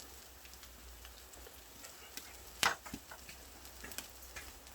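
Seasoned pork belly grilling over a wood fire, with a faint sizzle and scattered crackles from the fire and fat, and one sharp pop about two and a half seconds in.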